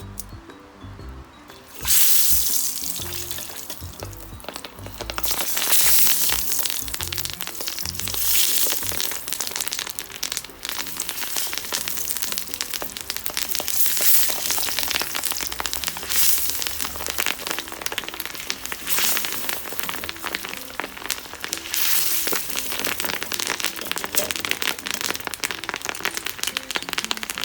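Food frying in hot oil: a loud sizzle breaks out about two seconds in as the food goes in, then a steady crackling sizzle.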